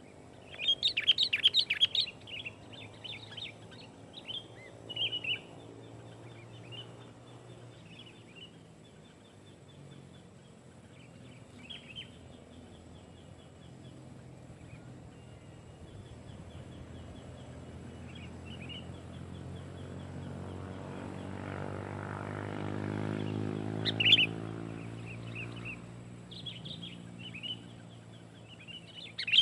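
Sooty-headed bulbul calling in short bright chirping phrases, loudest in a rapid burst about a second in and again near the end. Through the middle a low engine-like hum swells and fades.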